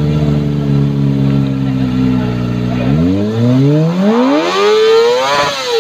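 Kawasaki ZX25R's 249 cc inline-four through a TBR aftermarket exhaust, held at steady revs, then revved up in a long rising sweep starting about three seconds in. The rev peaks near the end and starts to drop.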